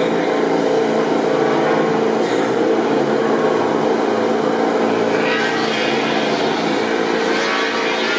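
MotoGP race motorcycle engine running steadily, with a fainter rise of engine noise from about five seconds in.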